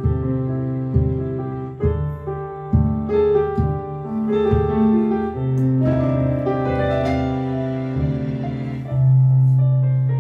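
Instrumental piano or keyboard music: sustained chords changing about once a second, with no singing.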